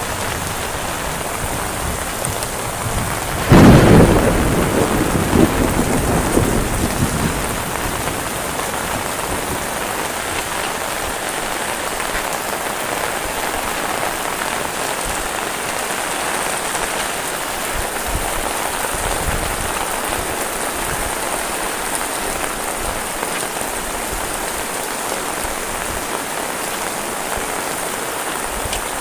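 Heavy rain falling steadily. About three and a half seconds in, a sudden loud clap of thunder rumbles and dies away over a few seconds.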